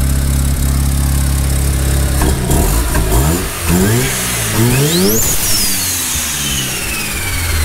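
Turbocharged Mazda RX-7 FD's rotary engine idling steadily, then revved several times from about two seconds in. A high whine climbs with the revs, then falls slowly over the last couple of seconds as they drop, the turbo spinning down. The engine sounds normal again.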